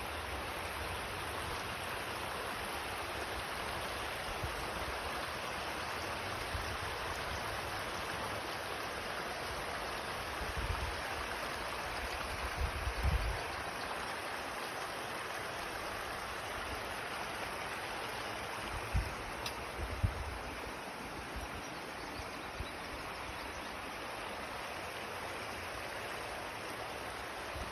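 Guadalupe River water flowing, a steady even rush of running water. A few brief low rumbles of wind buffet the microphone near the middle.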